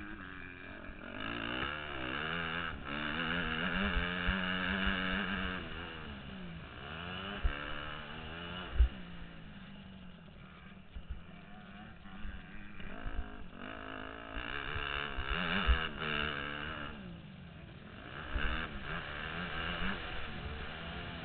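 Motocross dirt bike engine revving up and down over and over as the bike is ridden hard, heard from a helmet-mounted camera, with a low rumble and a few sharp thumps along the way.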